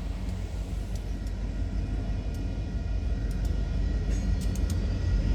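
Freight train rolling past: a steady low rumble that grows slowly louder, with a few sharp clicks.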